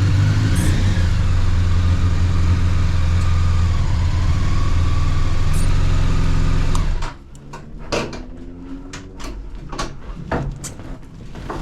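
Honda CBR1100XX Blackbird's inline-four engine running with wind noise, which stops abruptly about seven seconds in as the bike is shut off. Light clicks and knocks follow.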